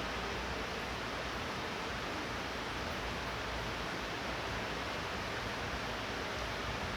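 Light rain falling steadily, an even hiss, with a low rumble underneath.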